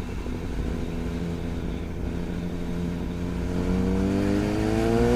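Suzuki GSX-S1000's inline-four engine through a Yoshimura R11 straight-pipe exhaust, running at low revs and then rising steadily in pitch from about three and a half seconds in as the bike accelerates.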